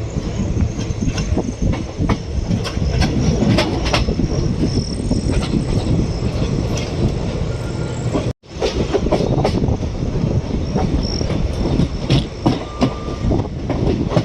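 Indian Railways passenger coach of the Maurya Express running at speed, heard from aboard: a steady rumble of wheels with repeated clicks over rail joints and faint wheel squeal. The sound cuts out abruptly for a moment about eight seconds in.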